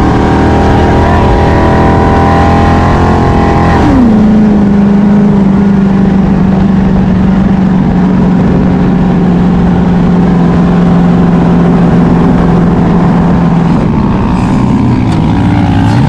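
Dune buggy's 5.3-litre LS V8 running hard under load, held high in revs, then dropping sharply in pitch about four seconds in as it shifts up. It then runs steady, with the pitch dipping near the end.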